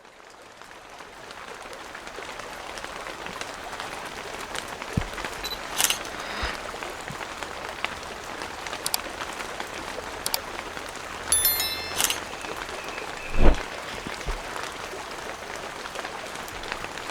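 Steady rain fading in over the first couple of seconds, with scattered heavier drops tapping, a short cluster of sharp ticks about eleven seconds in and one loud thud about thirteen and a half seconds in.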